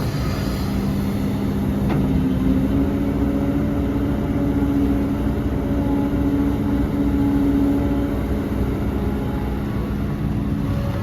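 Heavy diesel earthmoving machinery running steadily. Its engine note grows stronger from about two seconds in and eases back near the end, as if working under load, with a single click about two seconds in.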